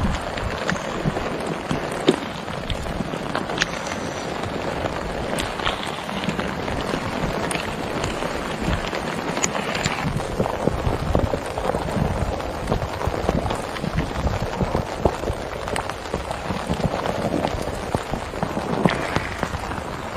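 Heavy rain falling steadily on a surface, with scattered sharp clicks of single drops.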